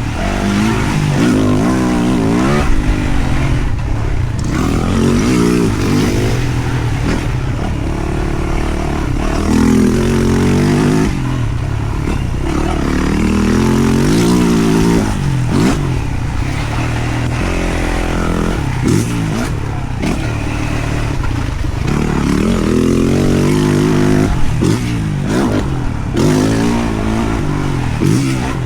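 2023 Yamaha YZ450F single-cylinder four-stroke engine, ridden hard: it revs up and drops back repeatedly as the throttle is opened and closed and the bike shifts gear.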